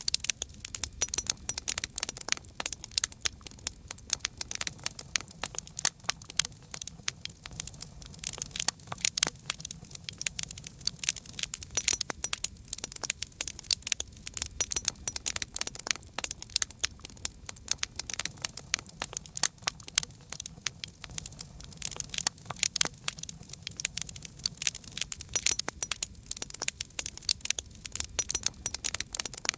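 Campfire crackling: dense, irregular pops and snaps of burning wood over a low steady rumble of flame.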